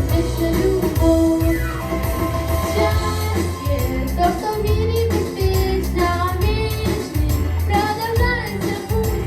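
A girl singing a pop song over a recorded backing track with a steady bass line.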